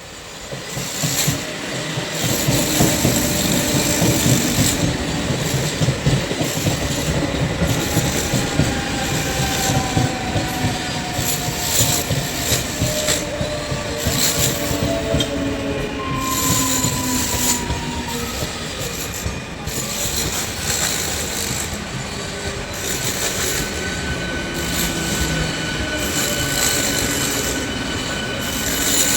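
A train running past: a steady rumble and clatter of wheels on the rails, with thin squealing tones that slowly fall in pitch.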